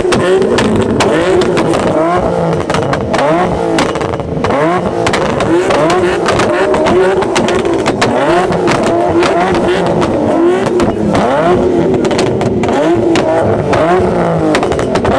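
Several car engines revving hard over and over at the same time, their pitches rising and falling against each other, with a dense crackle of pops running through them, typical of exhaust pops from two-step launch rev limiters.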